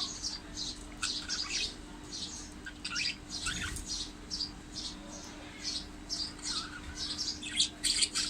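Budgies chirping and chattering: quick, irregular, short high chirps, several a second, over a faint steady low hum.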